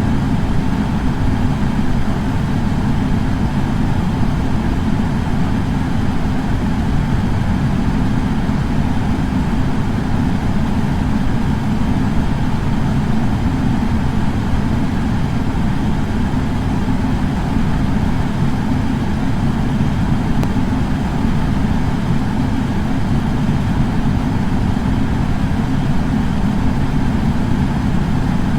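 Air purifier fan running with a steady, unchanging whoosh, deepest in the low end.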